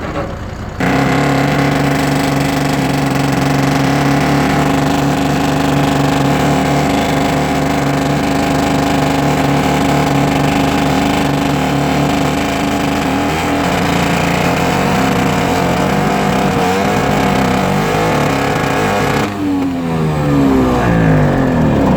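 Engine of a ДЗ-143 motor grader running in −29 °C cold, getting suddenly louder and steadier about a second in. Near the end its pitch wavers and shifts as the revs change.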